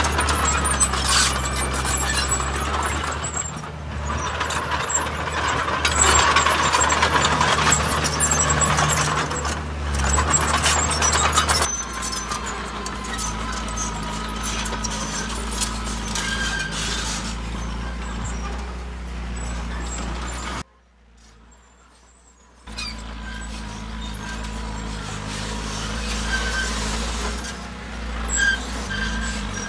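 Heavy construction machinery diesel engines running steadily. The sound changes abruptly about twelve seconds in and drops out for about two seconds later on, then the engine noise returns.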